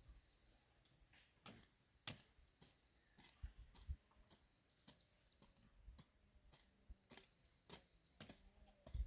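Near silence with faint, irregular clicks and light taps.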